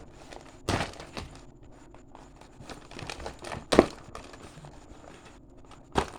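Toy packaging being handled and opened: rustling and crinkling of plastic and cardboard, with three sharp knocks, the loudest near the middle.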